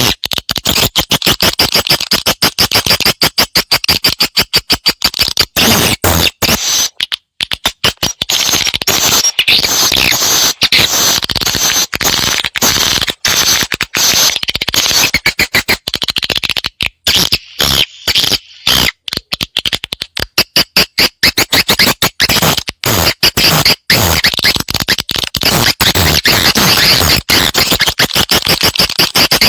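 Swiftlet lure call: dense, rapid chirping and twittering of a swiftlet colony, played to draw swiftlets into a nesting house. The chirps come in a fast, unbroken run, with short breaks about seven seconds in and again around seventeen to nineteen seconds.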